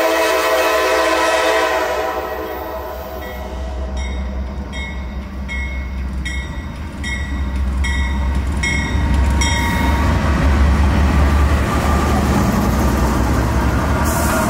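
Norfolk Southern diesel freight train approaching and passing close by. The locomotive's air horn sounds a steady chord that stops about two seconds in. A bell then rings about once every 0.7 seconds for some six seconds, and the deep rumble of the diesel locomotives grows louder as they pass.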